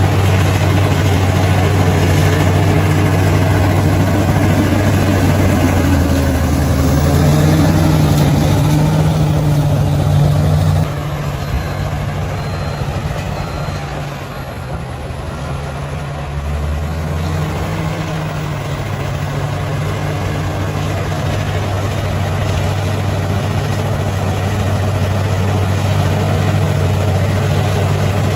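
A bulldozer's diesel engine running steadily with a deep, low drone. About a third of the way through it drops suddenly quieter, then builds back up to full level over the next several seconds.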